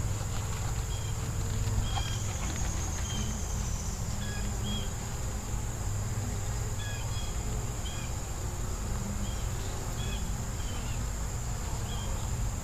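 Steady high-pitched drone of an outdoor insect chorus, like crickets, with short chirps scattered through it over a low steady hum.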